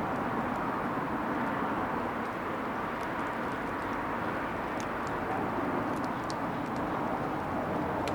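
Yard bonfire burning: a steady rushing noise with a few faint crackles and pops between about three and seven seconds in.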